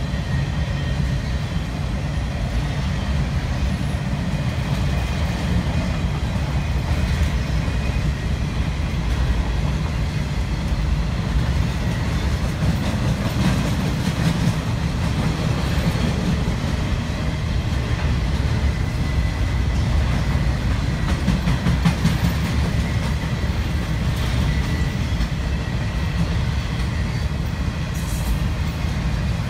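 Freight train of flatcars rolling steadily past: a continuous low rumble of steel wheels on the rails, with occasional clicks.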